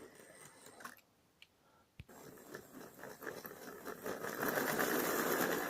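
Model train running along its track: a faint electric whirring and rail clatter that starts with a click about two seconds in and grows steadily louder.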